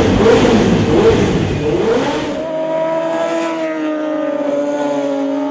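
Sportbike engine revving, its pitch rising and falling in several quick blips, which cuts off abruptly about two and a half seconds in. Sustained background music chords follow.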